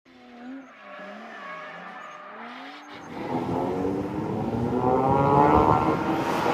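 Honda HR-V's R18 four-cylinder through an MS-R valved catback exhaust, accelerating: after a faint wavering tone for the first three seconds, the exhaust note cuts in loudly and climbs in pitch and loudness.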